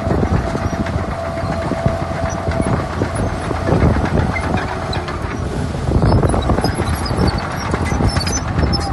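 Crawler bulldozer working, its diesel engine running under a continuous clatter and squeal-free clanking of steel tracks.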